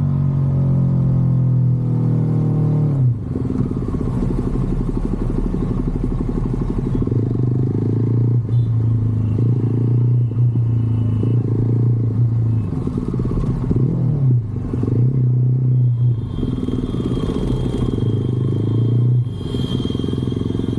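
Motorcycle engine running while riding, its note rising and falling with the throttle. It drops off briefly several times, about three seconds in, near the middle and near the end, then picks up again.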